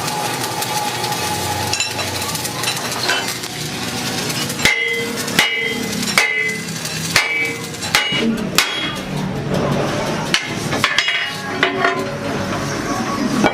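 A hammer striking a steel truck rim in a series of ringing metal blows, roughly one a second, starting about four and a half seconds in.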